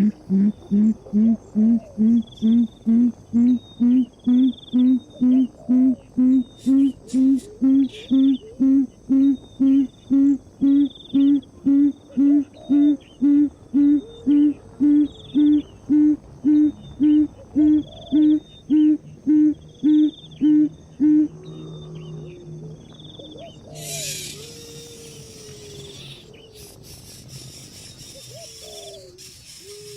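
An animal, most likely a bird, giving a long series of low hoots, about two a second, that rise slightly in pitch and stop about two-thirds of the way through. Behind it there is a steady high insect chorus, higher calls repeating every second or so, and a short burst of hiss near the end.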